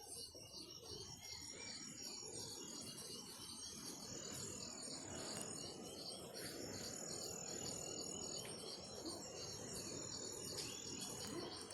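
Insects, such as crickets, chirping in a steady, rapidly pulsing high chorus over a faint low, even noise.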